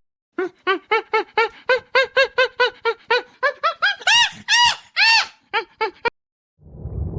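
An animal giving a fast run of short, pitched calls, about three or four a second, climbing higher and growing louder toward the end before stopping abruptly about six seconds in. A low rushing noise begins near the end.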